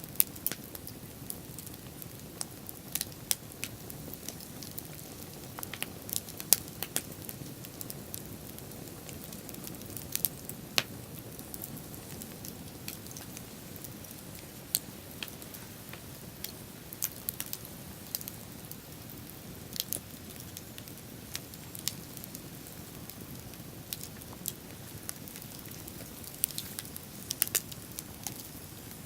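Wood bonfire crackling: irregular sharp pops and snaps, a few of them louder, over a steady low rushing noise.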